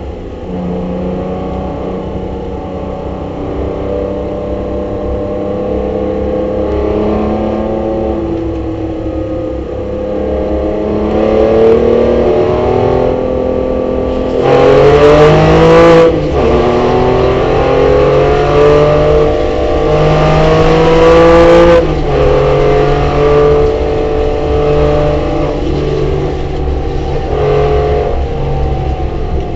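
Porsche race car's engine heard from inside the cabin under hard acceleration, the revs climbing and dropping back at each upshift, loudest about halfway through. A steady low road and wind rumble runs underneath.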